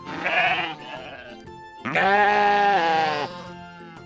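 Two sheep bleats: a short quavering one at the start, then a longer, steadier one about two seconds in.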